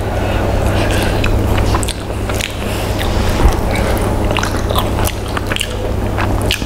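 A person eating whole fried chicken by hand, close-miked: chewing and biting with many short wet clicks, and fingers pulling at the meat, over a steady low hum.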